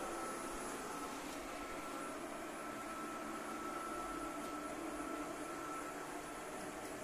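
Midea M7 robot vacuum running, a steady whir of its suction fan with a thin high whine held at one pitch.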